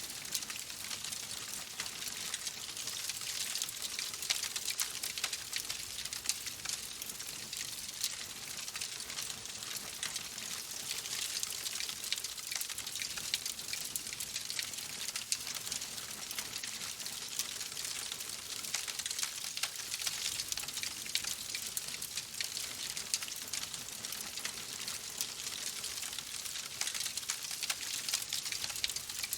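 Steady rain: an even hiss of falling rain with many small drop ticks.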